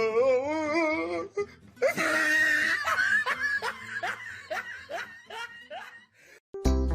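A person laughing hard: a long wavering cry in the first second, a loud burst around two seconds in, then a string of short laughs about two a second. Music starts just before the end.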